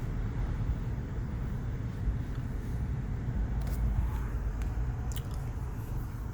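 Steady low road and engine rumble of a moving car, heard inside the cabin, with a few faint clicks.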